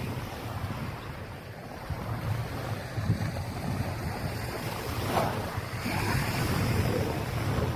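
Wind buffeting the microphone over the wash of small waves on a sandy beach, rising and falling unevenly.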